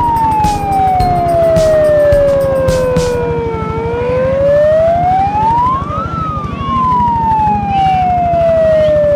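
A siren wailing: its pitch shoots up quickly, then slides slowly down over about four seconds, and does this twice. A fast, even low thudding runs underneath.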